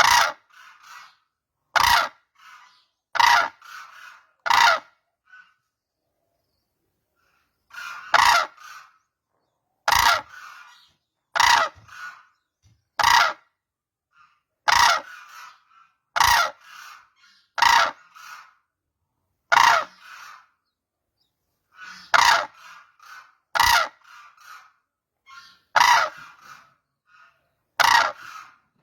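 Cranes calling: a long series of loud calls, one every second and a half or so, each followed by a few softer calls, broken by two short pauses.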